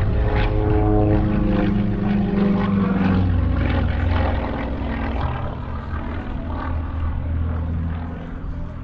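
Propeller aircraft engine running as the plane flies past, its pitch sliding down and the sound fading over the last few seconds.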